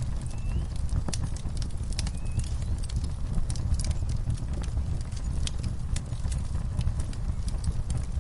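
Wood fire crackling: irregular sharp pops and snaps over a steady low rumble of the flames. Two faint short chirps are heard within the first few seconds.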